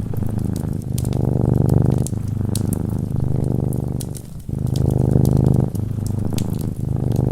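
Domestic cat purring close up: a low, rapid rumble that swells and eases with each breath. Sharp fireplace crackles sound over it.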